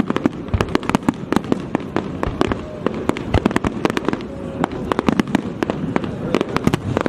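Fireworks going off in a rapid, irregular barrage of sharp cracks and pops over a continuous rumble of bursts.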